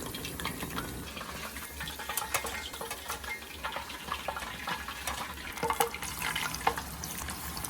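Chicken pieces deep-frying in a pot of hot oil: a steady crackling sizzle of bubbling oil, with a couple of louder clicks about three-quarters of the way through.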